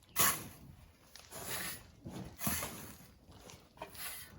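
Sand being shovelled: a series of short, rough scraping and hissing bursts, roughly one a second.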